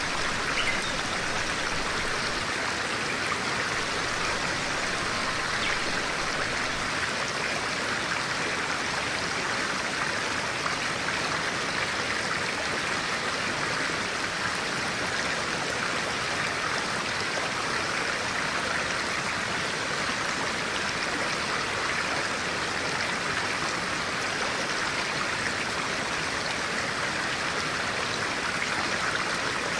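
A clear-water stream flowing steadily, an even, unbroken rush of water.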